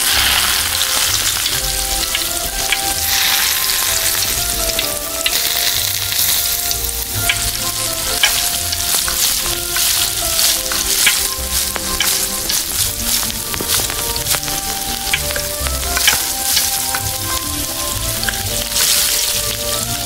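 Food frying in hot oil in a miniature pan, sizzling steadily. A utensil stirring the pan makes scattered small clicks and scrapes.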